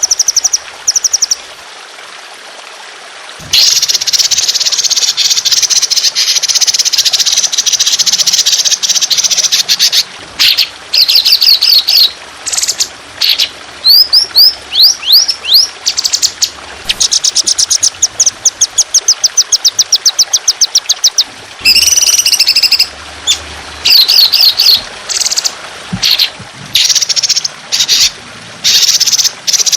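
Songbird singing a harsh, fast song of rapid trills and long runs of quickly repeated notes, in phrases broken by short pauses, with a run of quick rising whistles about midway. A faint steady trickle of water runs underneath.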